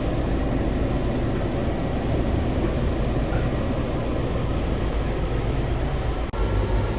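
Washington Metrorail train running, a steady low rumble of wheels on rails.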